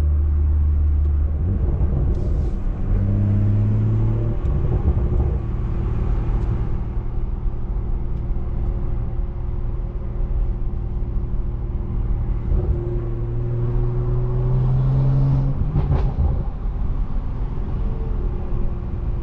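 Straight-piped BMW 340i's turbocharged inline-six pulling through the gears, rising in pitch and dropping back at each upshift, with a steady cruising stretch in between. A sharp crack from the exhaust comes about sixteen seconds in.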